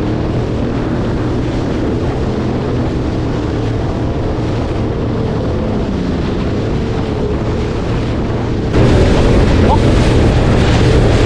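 Yamaha EX Deluxe jet ski engine running steadily underway, with wind buffeting the microphone. About nine seconds in it suddenly gets louder, with more wind and water noise.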